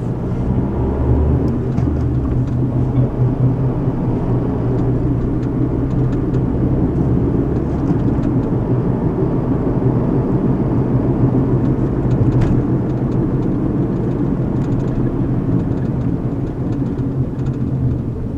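Road noise inside a moving car's cabin: a steady low rumble of tyres and engine, with a brief click about twelve seconds in.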